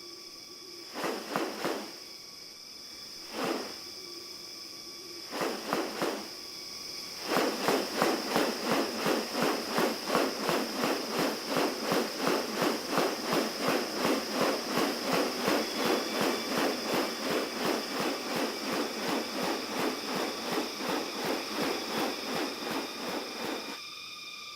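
Rainforest ambience with steady high-pitched insect tones. A few short rasping pulses come in the first six seconds. From about seven seconds in until near the end, an even run of pulses repeats about three or four times a second.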